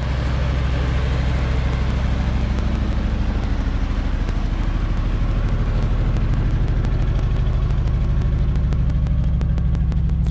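A 1973 Ford F-250's 360 V8 engine running steadily at an even speed, with a regular exhaust pulse of several beats a second and no revving.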